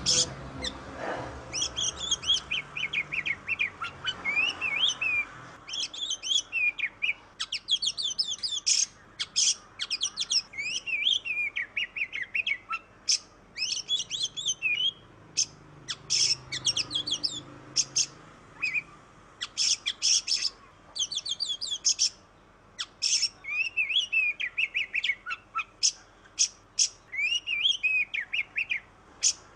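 Oriental magpie-robin (kacer) singing a rapid, varied song of quick whistles and chirps, delivered in dense phrases with short gaps between them.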